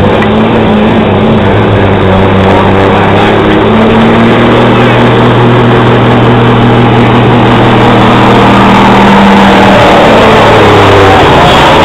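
Street semi truck's diesel engine running hard under load as it pulls the sled, very loud with a steady held pitch that drops near the end.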